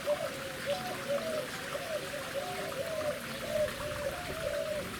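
Running water trickling and gurgling, with a quick, continuous run of short pitched bubbling tones over a steady hiss.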